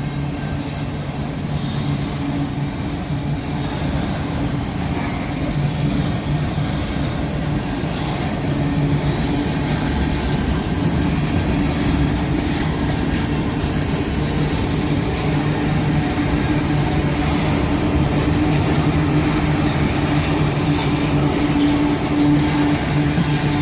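Freight train boxcars rolling past: a continuous rumble of wheels on rail with a steady low hum, growing slightly louder over the stretch.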